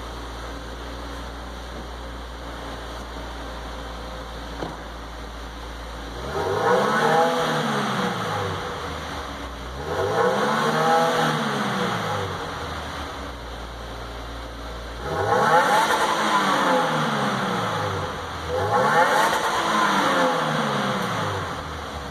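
2015 Subaru WRX's 2.0-litre turbocharged flat-four idling through its stock quad-tip exhaust, then revved four times, each rev rising and dropping back. The first rev comes about six seconds in.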